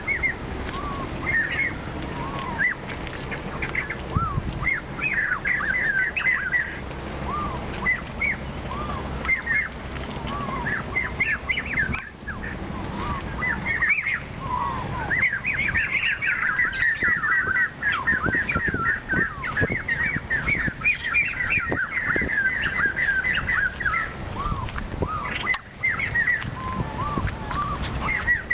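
Several birds chirping and trilling in quick, repeated notes, building to a dense run of chirps around the middle, over a steady low rumble.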